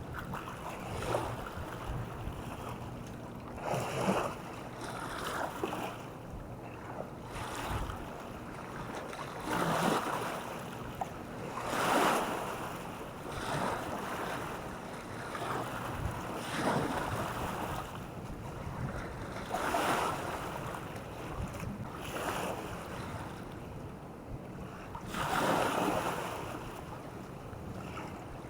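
Small waves washing onto the shore one after another, each rising and falling over about a second, every couple of seconds. Wind buffets the microphone with a low rumble underneath.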